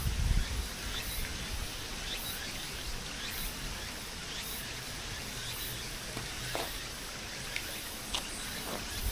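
Steady outdoor noise with faint, regular high-pitched insect chirring about once a second and scattered small ticks.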